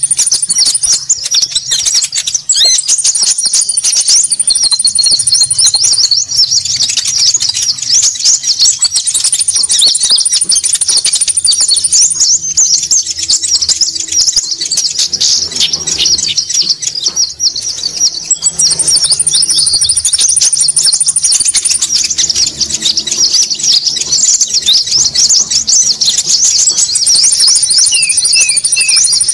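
Bird-lure recording of konin birds calling noisily: many fast, high chirps overlapping in a dense chatter, with a higher buzzy trill coming in bouts of about three seconds, four times.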